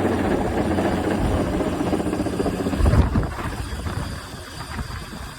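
Helicopter rotor and engine noise during a crane lift, steady and loud for about three seconds, then fading noticeably.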